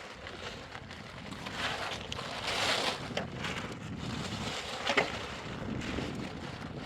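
Wind rumbling on the microphone, with a noisy swell a little over two seconds in and a single sharp knock about five seconds in.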